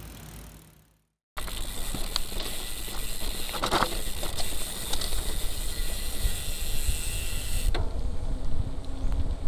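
Wind rumbling on the microphone and road noise while riding, starting abruptly about a second and a half in, with a few scattered rattles and clicks.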